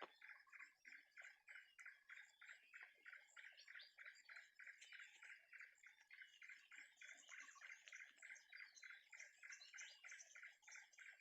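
Faint forest wildlife: a call pulsing steadily at about four or five pulses a second, with scattered higher chirps above it.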